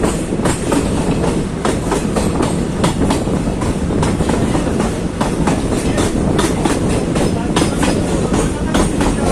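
Express passenger train running on the line, a loud steady rumble with the wheels clattering over rail joints in quick, irregular clicks.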